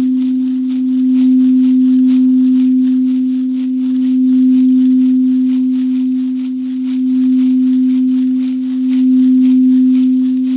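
Singing bowl sounding one steady low tone with a faint higher overtone, its loudness swelling and fading about every two to three seconds.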